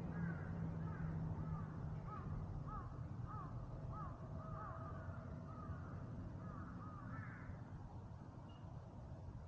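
Crows cawing repeatedly, a run of short calls about twice a second that dies away about three quarters of the way through, over a faint low hum that fades in the first couple of seconds.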